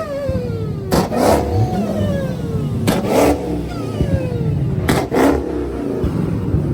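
Car engine revved in repeated blips about every two seconds. Each blip opens with a pair of sharp cracks, and the revs then fall away.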